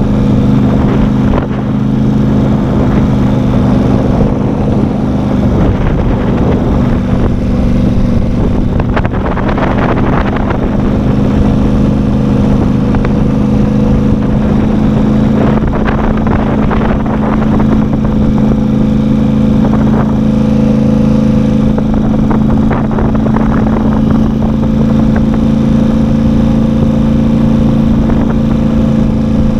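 Vehicle engine running at a steady, unchanging pitch while driving along, with a few brief swells of rushing noise over it.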